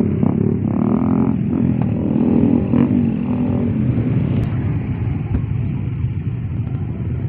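A crowd of motorcycles running together on loud open exhausts with the mufflers removed, a continuous dense engine din that eases slightly after about four seconds.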